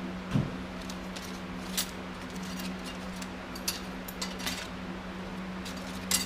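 Light metallic clicks and taps from parts and hand tools being handled on a workbench during engine reassembly, with a soft thump just under half a second in and a sharper click near the end. A shop fan hums steadily underneath.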